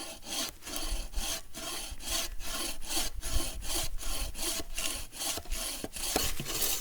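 Bow saw with a freshly tensioned blade cutting through a dense hardwood log in long, full strokes. The strokes come at a steady rhythm of about two a second.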